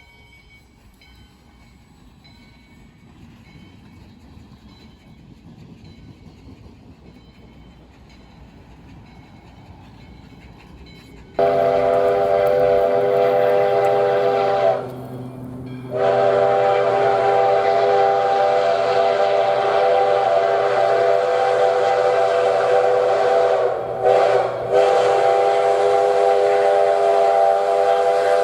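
Steam locomotive's chime whistle sounding long, loud blasts of several notes at once, starting about eleven seconds in, with a short gap a few seconds later and brief breaks near the end. Before it only a faint low rumble of the train is heard.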